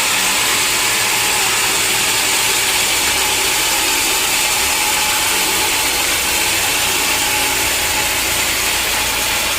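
Sawmill machinery running with a steady, loud mechanical noise that does not change.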